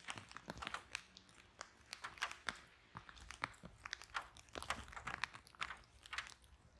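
Wood fire in a fireplace crackling, with irregular sharp pops and snaps over a faint low rumble of flame.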